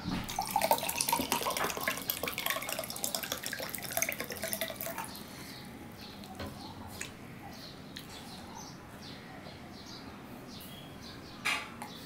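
Wet, squishy chewing and lip-smacking of rice and curry eaten by hand, dense and close for the first five seconds, then only now and then. A brief louder noise near the end.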